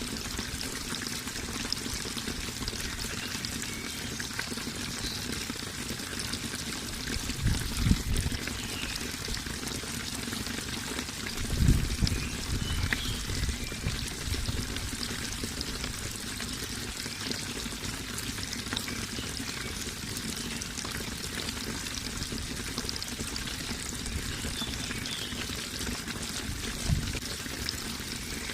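Running water pouring and splashing steadily, with a few brief low rumbles standing out above it.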